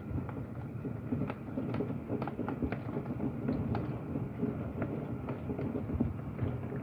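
Heavy rain with irregular sharp ticks of hailstones striking the house and window, heard through the window glass.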